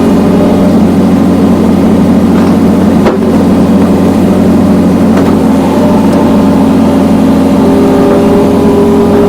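John Deere skid steer's diesel engine running steadily while it powers a hydraulic log splitter, with a steady whine over the engine note. A brief knock about three seconds in.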